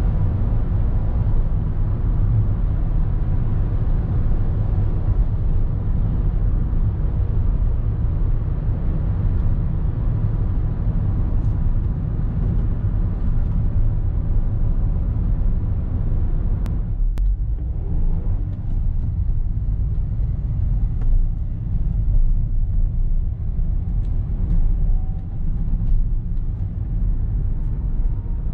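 A 2021 Renault Express van's 1.3-litre turbocharged petrol four-cylinder and road noise while driving, a steady low rumble. About 17 seconds in there are two sharp clicks, and the higher part of the noise eases for a moment.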